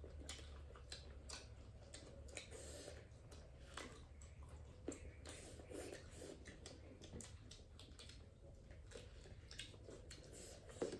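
Faint eating sounds: chewing and soft, irregular mouth smacks and clicks from someone eating duck curry.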